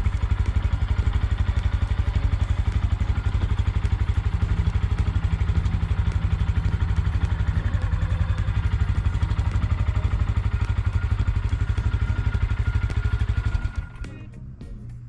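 Honda Grom's small single-cylinder engine running with an even pulsing beat, then shut off a little before the end.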